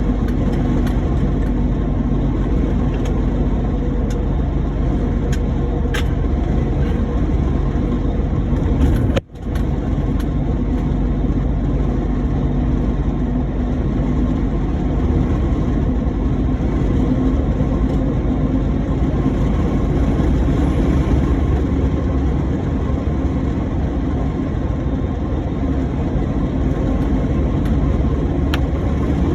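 Truck engine and road noise while driving, a steady low drone that drops out briefly about nine seconds in.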